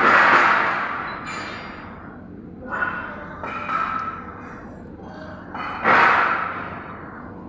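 Loud crashing and clattering in several surges, with a faint metallic ring in them: the biggest near the start and about six seconds in, smaller ones around three and four seconds, each dying away over a second or two.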